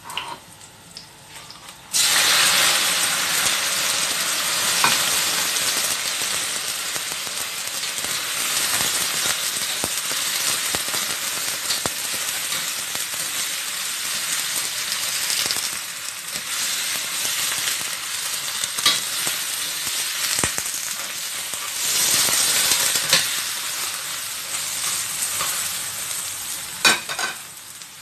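Raw crabs frying in hot oil with ginger in a stainless steel wok: a loud sizzle starts suddenly about two seconds in, as they go into the oil, and keeps going. A metal spatula scrapes and clicks against the wok as they are stirred, and the sizzle drops near the end.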